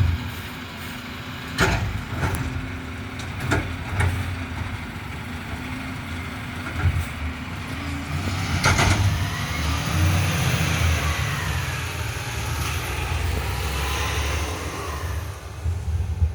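Garbage truck engine running steadily, with a series of sharp knocks and clanks in the first few seconds and a louder bang about nine seconds in, followed by a whine that rises and falls for several seconds.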